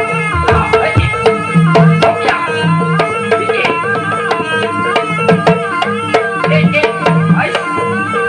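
Jaranan ensemble music: a wavering, ornamented melody line over quick, frequent hand-drum strokes and a steady held note.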